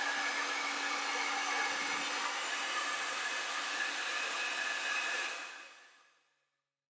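Handheld hair dryer blowing steadily, then fading out about five and a half seconds in.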